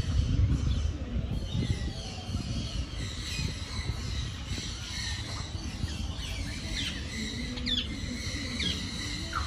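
Birds chirping in short, high, sweeping calls that come more often in the second half, over a steady low rumble.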